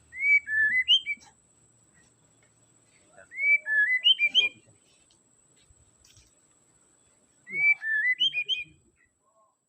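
White-rumped shama (murai batu) singing the same short phrase of clear, whistled notes three times, about three to four seconds apart.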